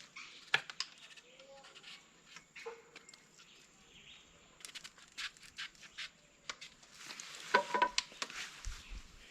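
Knife peeling the skin off a breadfruit: irregular scrapes and clicks of the blade against the rind, busier in the second half.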